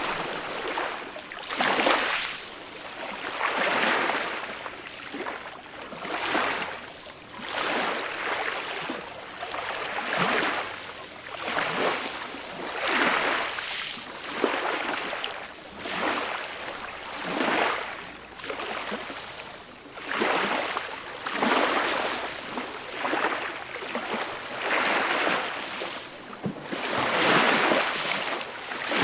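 Small, gentle waves lapping and washing on a beach shore, a soft rush rising and falling about every one and a half to two seconds, with a louder wash near the end.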